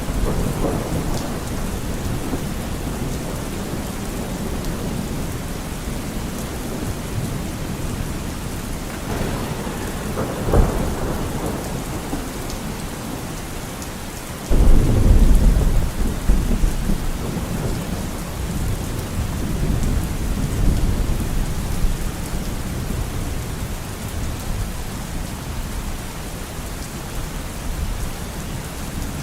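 Steady heavy rain with thunder: a sharp crack about ten seconds in, then a sudden loud, deep thunderclap about halfway through that rumbles on for several seconds.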